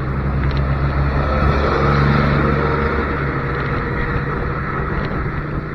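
Motorcycle engine running at a steady cruise with road and wind noise, swelling slightly about two seconds in.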